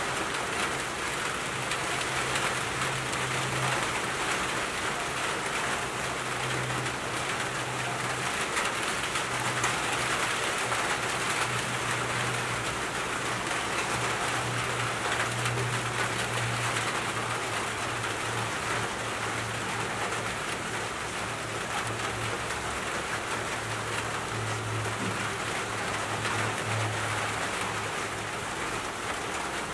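Steady rain falling on leaves and flowers, an even, dense hiss of drops, with a low rumble underneath that comes and goes.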